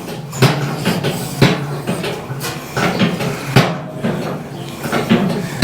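Irregular sharp metal knocks and clanks, about a dozen spread unevenly over several seconds, from handling a motorcycle on a steel motorcycle lift table.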